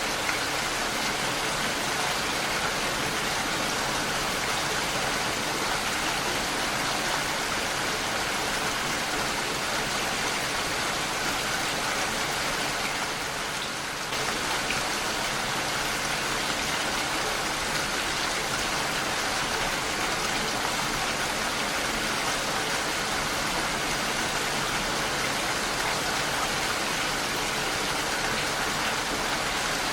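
Heavy rain falling steadily on a window, a dense even patter that eases slightly for a moment about halfway through.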